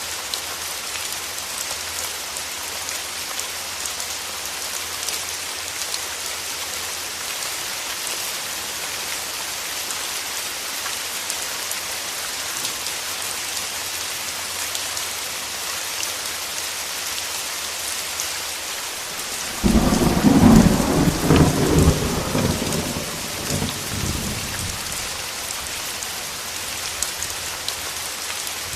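Steady rain falling, with a sudden clap of thunder about two-thirds of the way through that rumbles for about five seconds and fades back under the rain.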